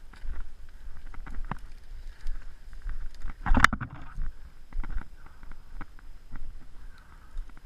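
Rustling and crunching of leaf litter and brush as a person moves through woodland undergrowth, with irregular crackles and low bumps on the body-worn camera's microphone. About three and a half seconds in there is one louder crunch.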